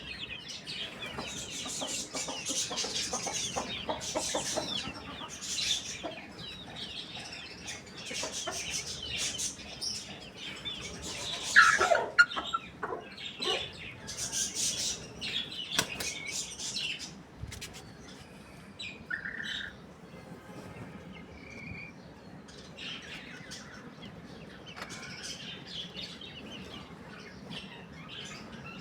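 Chickens clucking among chirping small birds, with one short loud call about twelve seconds in and scattered high chirps in the quieter second half.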